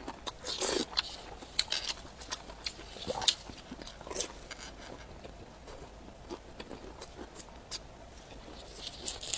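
A person eating close to the microphone: wet chewing and mouth clicks, with a few louder crunchy bites scattered through.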